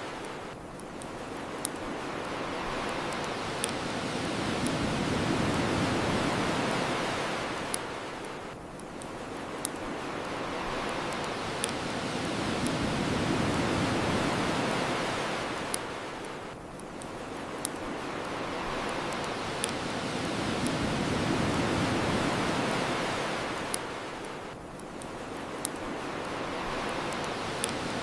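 Ocean waves washing onto the shore, swelling and ebbing slowly about every eight seconds, with a bonfire's sharp crackles and pops every couple of seconds.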